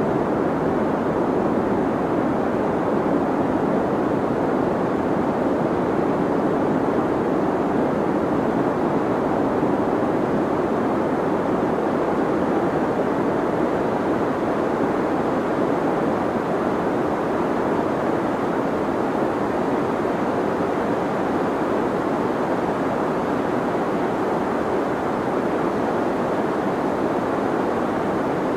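Steady deep white noise for sleep: an even, unchanging rushing hiss weighted toward the low and middle range, with little treble.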